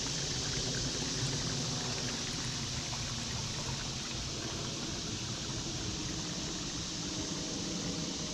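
Shallow woodland creek babbling steadily over stones.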